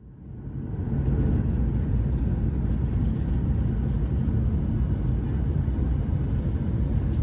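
Steady low rumble of engine and airflow noise inside the cabin of a Boeing 737-800 on approach, rising in over the first second.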